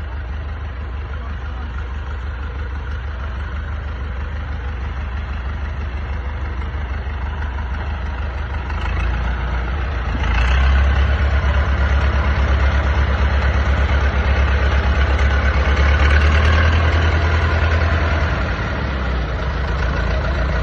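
Old tractor engine running steadily with a low, pulsing beat. It grows louder about halfway through, then settles back down near the end.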